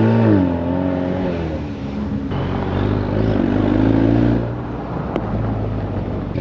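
2021 Ford Mustang EcoBoost's 2.3-litre turbocharged four-cylinder with the muffler deleted, revving up and dropping back, then rising again more gently before falling away about four seconds in. A single sharp click comes about a second after that.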